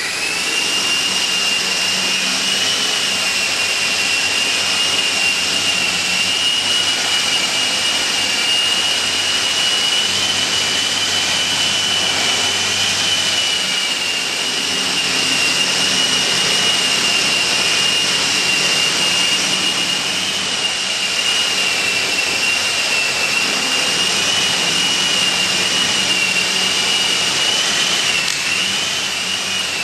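Electric RC scale model helicopter (Eurocopter EC-135) running: the steady high-pitched whine of its electric motor and drivetrain over rotor noise, settling after spool-up at the very start and wavering slightly in pitch near the end.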